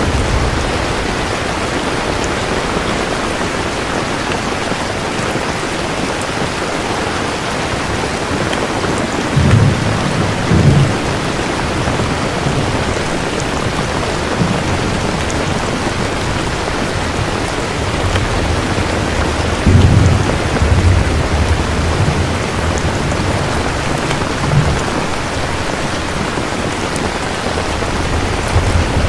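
Steady heavy rain with low thunder rumbling several times, strongest about ten seconds in and again about twenty seconds in.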